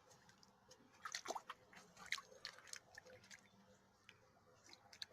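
Faint, irregular small water splashes and clicks from a domestic goose moving in a shallow puddle.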